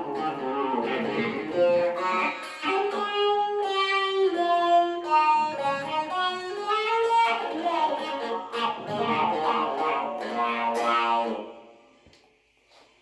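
Electric guitar played through a talk box, its notes shaped into vowel-like sounds, with some notes gliding in pitch. The playing fades out about a second before the end.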